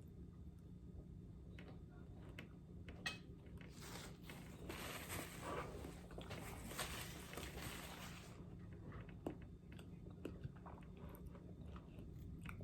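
A person biting and chewing caramel-dipped apple, faint, with a denser run of crunching in the middle and scattered smaller crunches and clicks around it.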